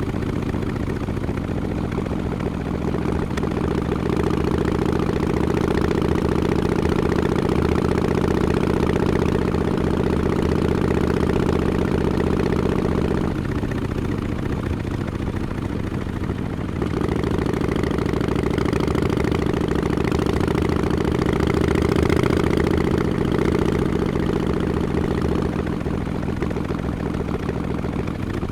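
Harley-Davidson Sportster Forty-Eight's air-cooled V-twin running through Vance & Hines Short Shots exhaust with quiet baffles, a steady low-revving note. About halfway through it eases off for a few seconds, then picks up again.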